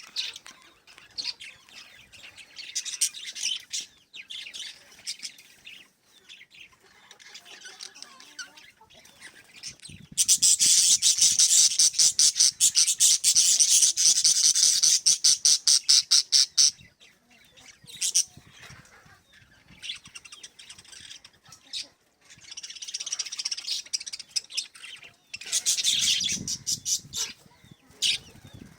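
Small pet parrots chirping and chattering: scattered high chirps, then a loud, rapid run of repeated chirps lasting about six seconds in the middle, and more bursts of chirping near the end.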